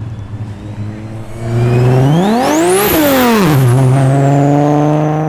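Turbocharged car engine idling, then revved once with a sharp rise and fall. A high turbo whistle climbs with the rev and winds down slowly afterwards.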